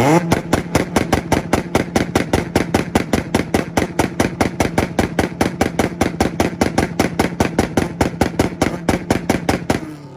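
Car engine held on a two-step launch-control limiter, firing rapid bangs and pops about six times a second over a steady engine note, then let off near the end with the revs falling away.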